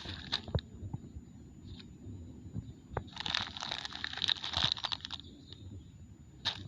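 Plastic litter and a plastic bag crinkling and rustling as garbage is stuffed into the bag: scattered clicks and crackles, with a longer stretch of dense crinkling about three seconds in.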